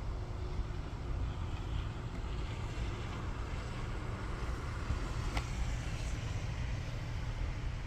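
Steady low outdoor rumble with a faint even hiss during heavy snowfall, with a single light click about five seconds in.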